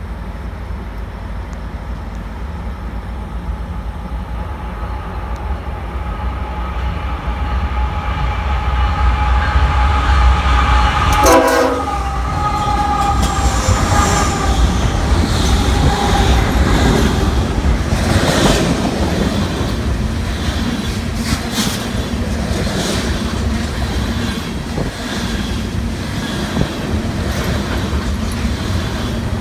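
BNSF freight train passing at speed: the diesel locomotives' air horn sounds a held chord over a deep engine rumble, which grows louder, then drops sharply in pitch about eleven seconds in as the locomotives go by. After that the ethanol tank cars roll past with a steady rumble and clickety-clack of wheels over rail joints.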